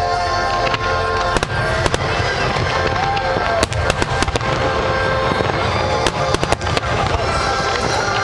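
Fireworks display shells bursting in sharp bangs and crackles at irregular intervals, with thicker clusters about two seconds in, near the middle and toward the end, over a steady music soundtrack.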